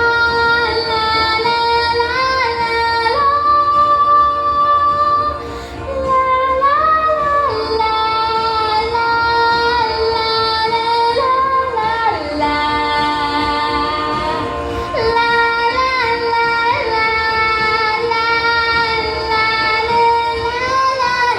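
A high female voice singing a wordless 'la la' line in long held notes that step up and down in pitch, with slight wavers.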